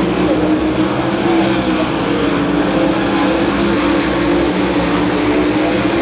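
Several sprint cars' V8 engines running hard together in a race, a loud steady drone of overlapping engine tones that shift slightly in pitch.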